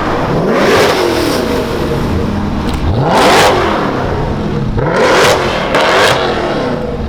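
A high-performance sports car engine revved hard four times, each blip climbing sharply in pitch and falling straight back to idle.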